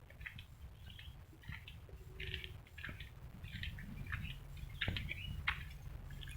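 Birds chirping: many short, scattered calls, over a low steady rumble.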